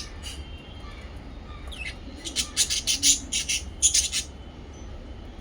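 Small pet parrots giving a quick run of shrill chirps, about ten sharp calls packed into two seconds starting about two seconds in, over a steady low hum.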